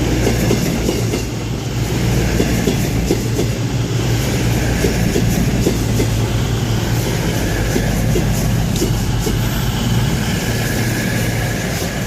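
Diesel-powered passenger train moving through the station: a steady low engine drone with wheels clicking over rail joints.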